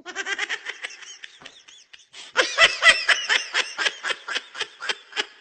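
People laughing, a fast string of short laughs that grows louder about two seconds in.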